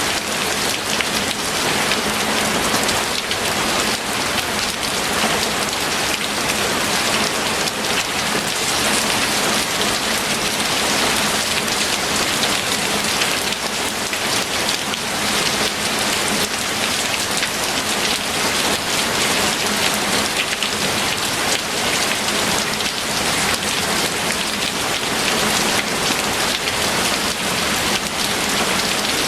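Steady rain falling, with a dense, even patter of drops hitting a surface.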